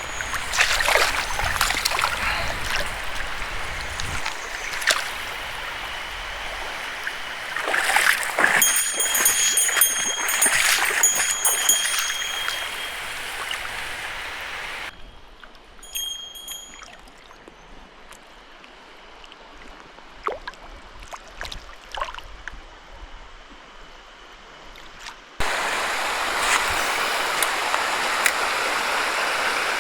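Mountain stream running, with scattered clicks and rustles over the water. About halfway the sound cuts abruptly to a quieter stretch, and near the end it jumps back to a steady, louder rush of water.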